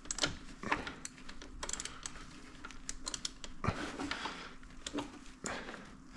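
Irregular small clicks and knocks of hand tools and metal parts being handled, scattered unevenly over a faint steady hum.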